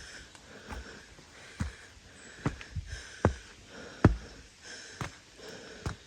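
Footsteps walking at a steady pace: seven sharp steps, a little under one a second.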